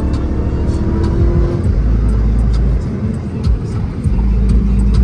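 Dodge Hellcat Redeye's supercharged 6.2-litre HEMI V8 running while the car drives, heard from inside the cabin as a steady low rumble mixed with road noise.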